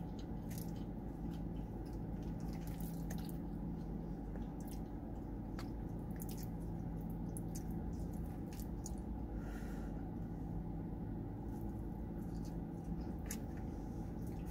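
Close-miked chewing and wet mouth sounds of someone eating cheesy chili fries, with scattered small clicks, over a steady low hum inside a car.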